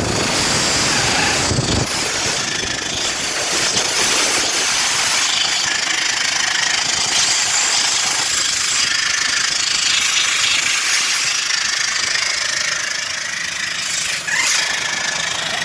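Compressed air hissing hard out of a Volvo truck's engine-driven air compressor, its outlet line disconnected, with the engine running. A hand is held over the outlet to test the compressor's output: a healthy compressor pushes the air out past the hand.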